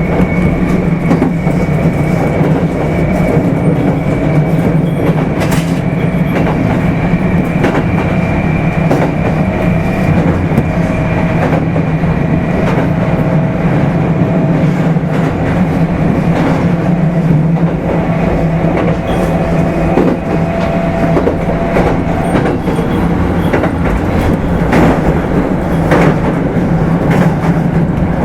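Kintetsu 5200 series motor car running along at a steady speed, heard from aboard: a constant hum and whine from the traction motors and gears under a steady rumble of wheels on rail. Short clicks from rail joints come now and then.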